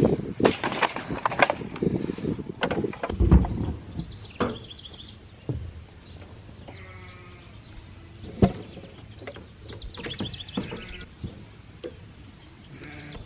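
Sheep bleating several times. Knocks and clatter come in the first few seconds, with one more sharp knock about midway.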